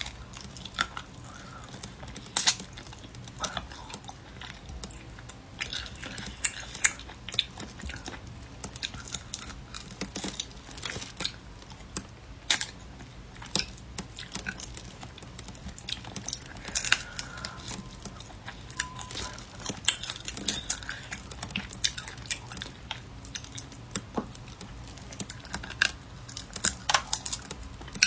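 Close-miked chewing and gnawing on spicy braised rabbit head: irregular wet mouth smacks with sharp clicks and crunches. The meat has dried out from standing and is chewy.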